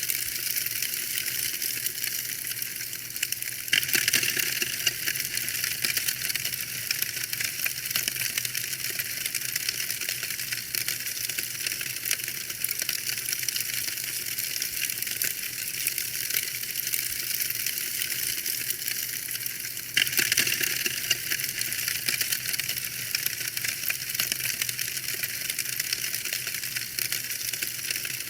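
Wood fire crackling and popping in a fireplace: a steady stream of small sharp crackles over a soft hiss, with louder flare-ups of crackling about four seconds in and again about twenty seconds in.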